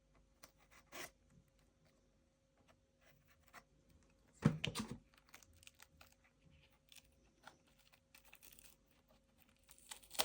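Quiet handling noises: scattered small clicks and scratches, with a brief louder tearing, crunching sound about four and a half seconds in.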